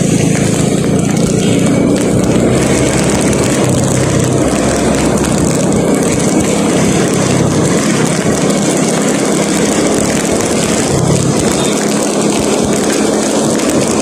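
Vehicle engine running steadily under a constant rush of road noise while driving along.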